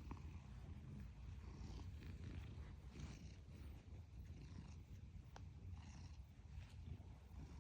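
Domestic cat purring steadily close to the microphone: a low, continuous pulsing rumble, with faint airy swells about once a second.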